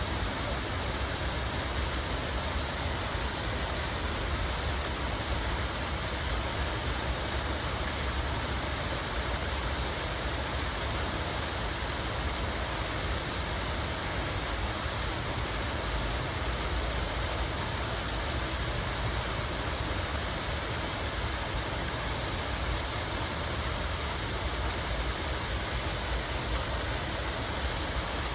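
Steady rushing of running water, even and unbroken, with a low rumble underneath.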